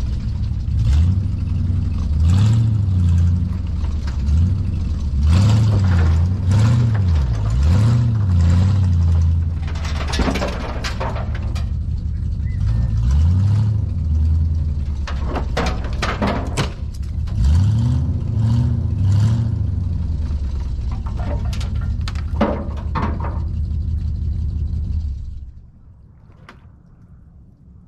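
Pickup truck engine revving up and down in repeated pulls under load while towing another truck over onto its side, with the rasp of its exhaust leaks. Sharp clanks and knocks come through several times, and the engine sound cuts off near the end.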